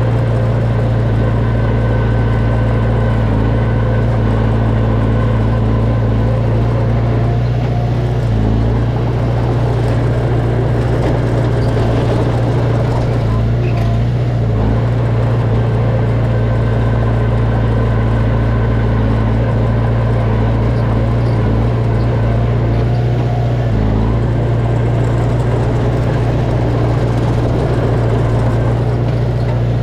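Diesel engine of heavy earthmoving machinery running steadily with a strong low hum, its note shifting briefly a few times as the load changes.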